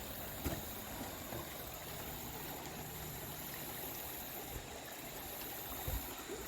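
Stream water flowing steadily. Two brief soft low thumps come about half a second in and again near the end.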